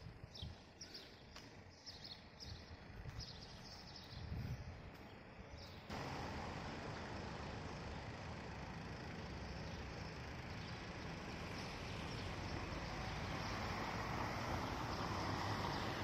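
Small birds chirping, several short high calls a second. About six seconds in, a steady rushing noise sets in abruptly, covers them and slowly grows louder.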